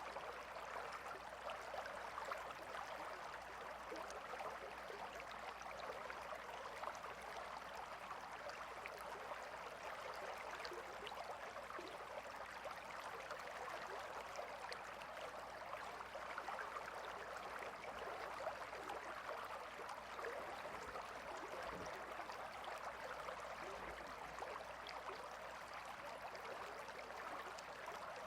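Gentle river flowing: a steady, even wash of water.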